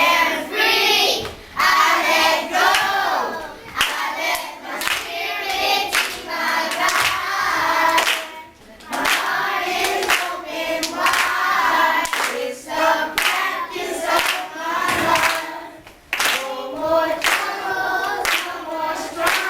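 A group of voices singing together, accompanied by rhythmic hand clapping.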